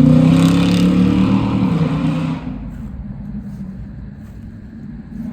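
A vehicle engine revving loudly, its pitch climbing slightly and holding, then dropping and fading about two seconds in to a quieter low rumble.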